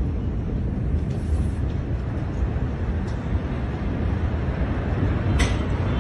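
Steady low rumbling noise, with one short sharp crack about five and a half seconds in.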